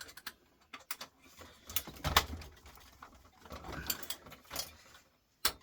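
Irregular clicks, knocks and light rattles of small metal parts being handled, with a louder knock about two seconds in.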